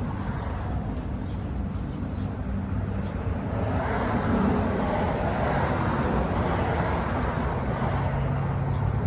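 Steady motor-vehicle running noise with a low, even hum, growing a little louder about four seconds in.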